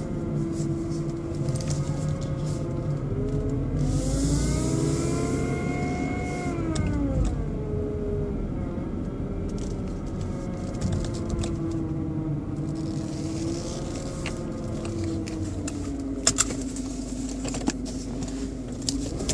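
BMW 120i (E87) four-cylinder petrol engine running with a motor-like whine, revved up and back down twice, the pitch rising and falling with the revs. The owner hears this motor-like noise whenever the engine turns, seemingly from behind the air filter box, and an oil change has not cured it. A few sharp clicks near the end.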